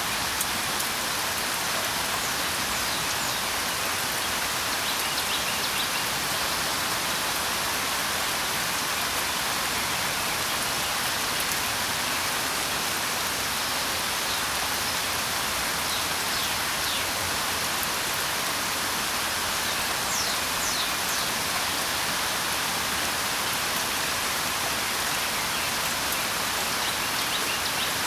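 Steady, even rain, with faint short bird chirps a few times over the top.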